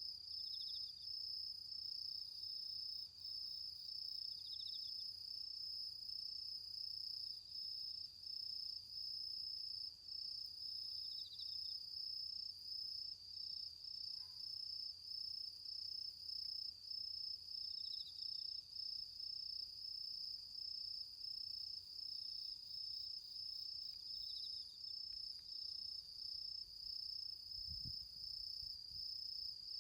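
Autumn insects, crickets among them, singing: one steady, high, slightly pulsing trill throughout, with a second insect's shorter, lower chirps every few seconds. A soft low thump near the end.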